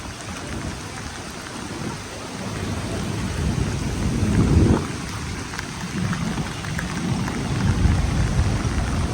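Heavy monsoon rain pouring down, with a low rumble underneath that swells to its loudest about halfway through.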